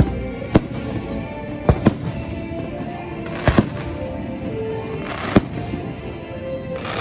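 Fireworks shells bursting in sharp bangs about six times, some in quick pairs, with brief crackling after a couple of them. Music plays steadily underneath.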